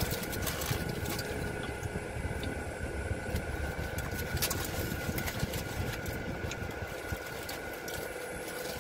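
Car engine idling, heard from inside the cabin: a steady low rumble with a faint steady hum, and a few light scattered clicks.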